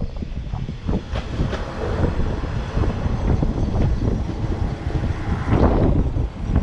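Kanto Railway Joso Line diesel railcar running in along the station platform and past close by, a steady low rumble of engine and wheels on rail.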